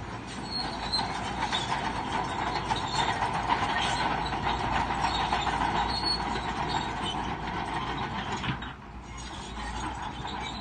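Crawler bulldozer working, its steel tracks squealing and clanking steadily over the rumble of the engine. The sound drops briefly about nine seconds in, then picks up again.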